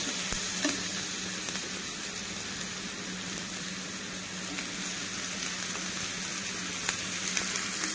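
Chopped onions, green chillies and curry leaves sizzling steadily in hot oil in a pan, with a few light scrapes of a steel spoon stirring them.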